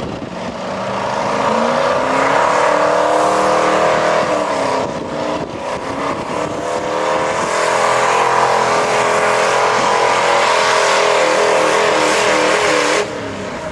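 Pulling truck's engine running hard at high revs under load, its pitch climbing over the first few seconds, dipping briefly about five seconds in, then held high again until it drops off suddenly near the end.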